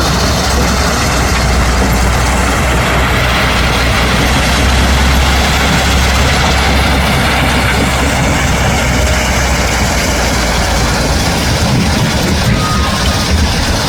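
Heavy dump truck engine running steadily with a loud, low rumble.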